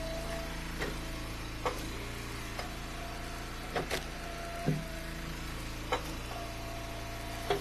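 Engine-driven Eastonmade hydraulic wood splitter running steadily, with a whine that rises and drops away a few times as the splitter works. Sharp knocks and cracks of dry ash rounds splitting and pieces being handled come every second or so.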